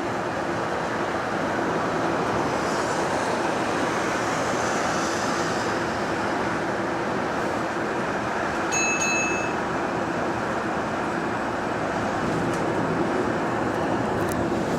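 Inside a moving single-decker bus: steady drone of the drive and road noise with no suspension creaking, the creak having been fixed. A short electronic beep sounds about nine seconds in.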